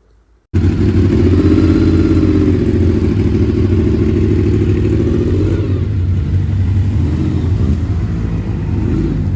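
Motorcycle engine running steadily under light load, starting abruptly about half a second in, its pitch wavering slightly.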